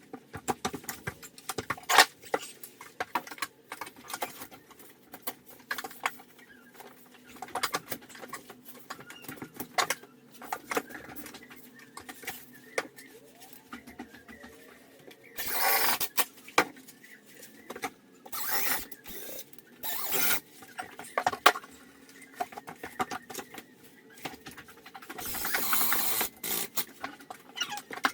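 Irregular small clicks, taps and rattles, with two longer bursts of rustling noise about halfway through and near the end.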